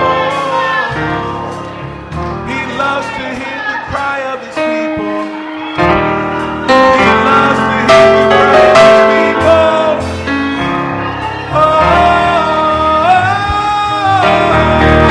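Worship song: male and female voices singing together over instrumental accompaniment, recorded in a large hall with a distorted, loud sound.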